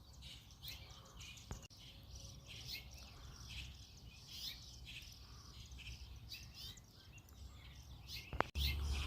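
Several birds chirping and calling over each other in quick, overlapping short notes, over a faint steady low rumble. Near the end a sharp click is followed by a louder low rumble.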